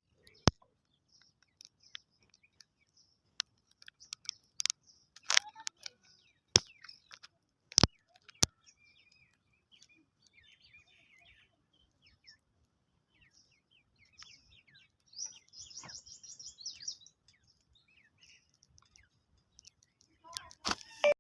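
Grey francolin (teetar) chicks peeping in short, high, thin chirps, with a brief busier run of chirping in the second half. About a dozen sharp clicks or taps break in irregularly, several in a quick cluster near the end.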